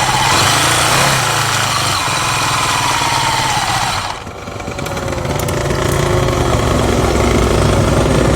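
Vintage racing motorcycle engine running, its pitch sliding down over the first few seconds. About four seconds in the sound drops off suddenly, and a lower, steadier engine note follows.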